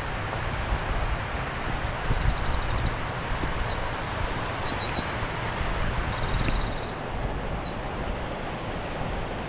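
Steady rushing of a waterfall with wind rumbling on the microphone, while a small songbird sings high chirps, quick trills and up-and-down whistles from about two seconds in until near the end.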